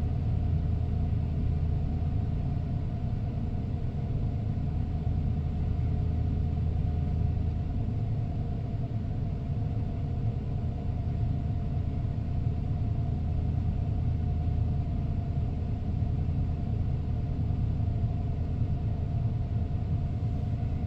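1994 Ford F-150's 302 V8 idling steadily just after a cold start, still on its warm-up idle before it settles down.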